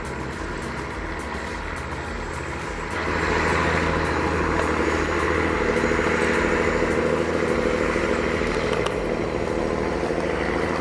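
Diesel engine of a loaded Peterbilt 359 log truck labouring up a steep grade, a steady heavy drone that grows louder about three seconds in.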